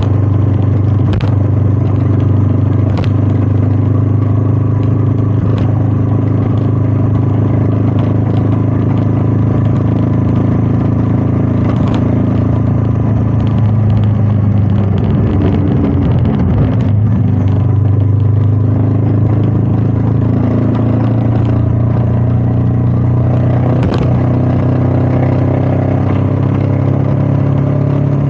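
Royal Enfield Meteor 350's single-cylinder engine running steadily under way, with wind rushing over the chest-mounted microphone. About halfway through, the engine note wavers and shifts pitch, then settles again. A few sharp ticks are heard along the way.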